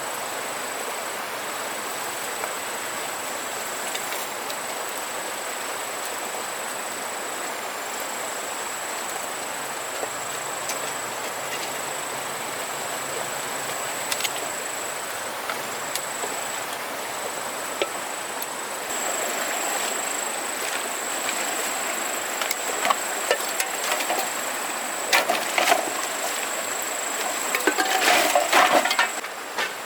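Steady rushing outdoor noise with a constant high-pitched whine, and scattered sharp clicks and knocks that grow into a busier clatter near the end.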